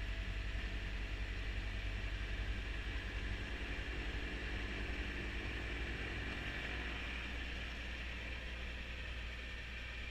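Kubota B2650 compact tractor's diesel engine running steadily, with the steady rushing noise of its front-mounted snowblower over the engine's low hum.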